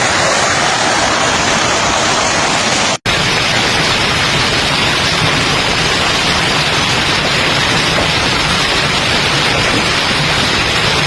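Loud, steady rushing of storm water, heavy rain or flooding water, cut off for an instant about three seconds in and then carrying on unchanged.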